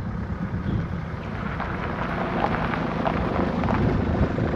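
A steady rushing noise with a dense crackle and a low rumble underneath.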